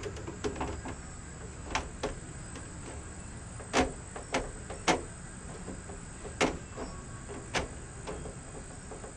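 Sharp, irregular clicks and knocks, about seven over several seconds, from a 1965 VW Beetle's sunroof cable and sliding mechanism being worked back by hand, over a steady low hum.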